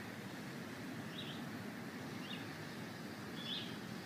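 A small bird chirps briefly a few times over a steady outdoor hiss of freezing rain.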